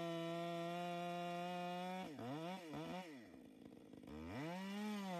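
Two-stroke chainsaw running at high revs; about two seconds in the revs drop sharply several times, sink low for about a second, then climb back to full speed.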